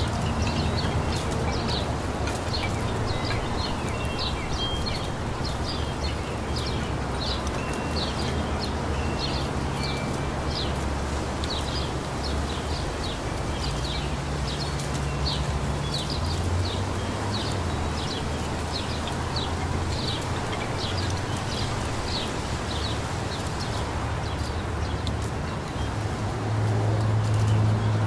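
Small songbirds chirping, with short high chirps repeating over and over, above a steady rustle of light breeze in the leaves and a low hum underneath.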